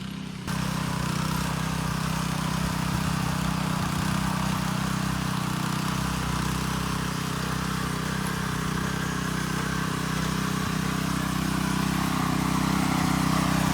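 Rented mid-tine garden tiller's small engine running steadily as it tills the soil; it cuts in about half a second in and stops abruptly at the end.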